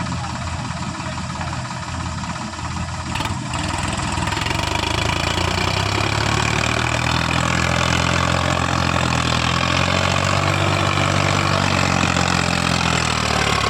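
Sonalika tractor's diesel engine running, then revving up about four seconds in and holding at steady higher revs.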